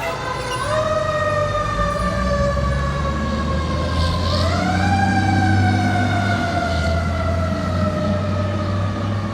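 Fire engine siren wailing, its pitch swept up quickly twice, once about half a second in and again about four seconds in, each time sliding slowly back down. A fire truck's diesel engine rumbles underneath.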